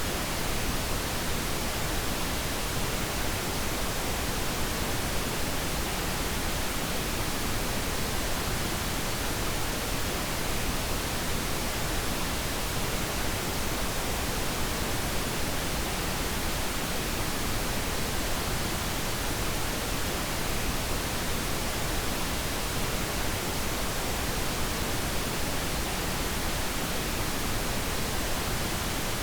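Steady synthetic noise for sleep, an even hiss that does not change.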